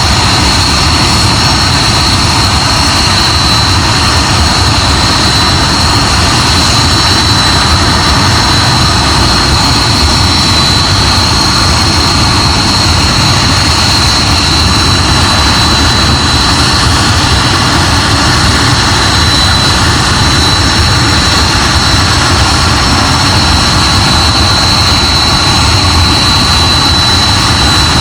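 Hawker Hunter's jet engine running steadily at a constant setting: a loud, even high whine over a deep rumble, with no change in pitch.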